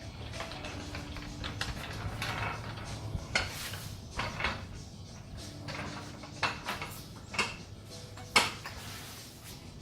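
Irregular metal clanks and knocks of workshop equipment being handled and shifted under a car, with the sharpest knock near the end.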